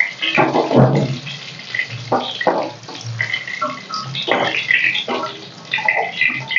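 Battered chicken pieces deep-frying in hot oil in a kadai, sizzling and crackling steadily. A spoon knocks and scrapes in the pan now and then as the fried pieces are lifted out.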